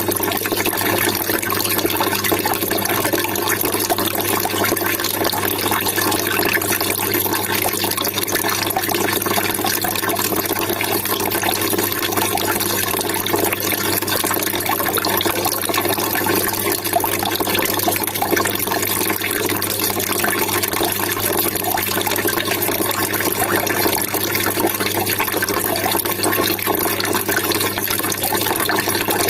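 Water trickling and splashing steadily, with no change.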